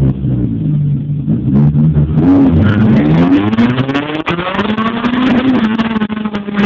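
Honda H22 four-cylinder in a CRX, heard from inside the cabin, accelerating hard from a standing start. The revs climb from about two seconds in, with a short break about four seconds in, like a gear change.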